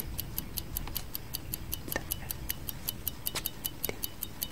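Clock tick-tock sound effect: fast, even ticking, about four to five ticks a second.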